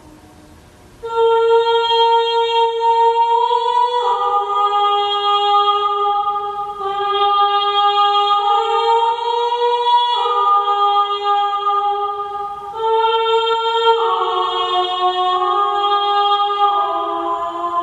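Slow, wordless sung music of long held notes, the pitch stepping to a new note every two to three seconds. It comes in about a second in, after a brief lull.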